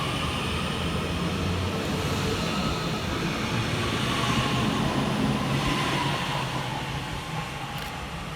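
Northern electric multiple unit pulling away from the platform, its traction motors humming and whining steadily with rolling rail noise. The sound eases off near the end as the train draws away.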